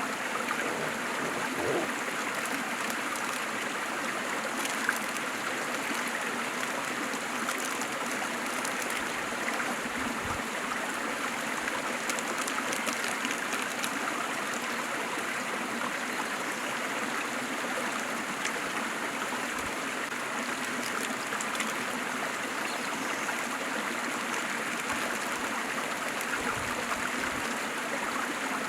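Waterfall: water falling and splashing in a steady, unbroken rush, mostly mid- and high-pitched with little deep rumble.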